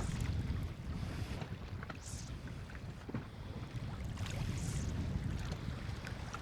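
Wind buffeting the microphone on a small boat drifting at sea, a steady low rumble with sea noise around the hull, and two brief higher hisses about two and four and a half seconds in.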